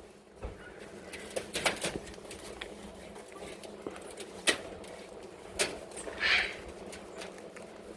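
Parrots pecking and shuffling about: scattered sharp clicks and taps, with one short harsh squawk about six seconds in.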